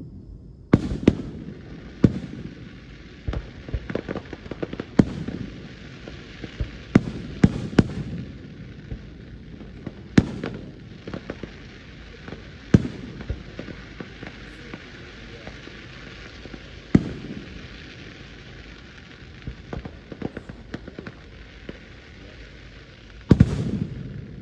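Aerial fireworks shells bursting, a dozen or more sharp booms at irregular intervals with crackling in between, and a loud cluster of bangs near the end.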